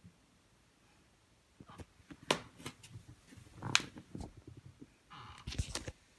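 A run of irregular sharp clicks and light knocks, loudest twice in the middle, with a short rustle and a few low thumps near the end.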